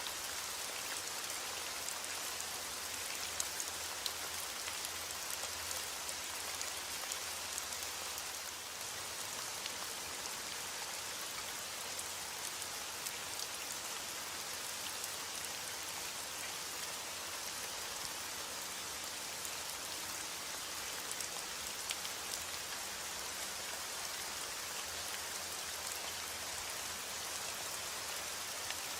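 Steady heavy rain, a dense even hiss of falling rain with many fine drops ticking on a surface.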